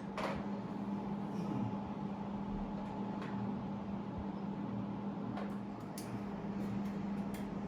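Room tone: a steady low hum with a few faint clicks and taps.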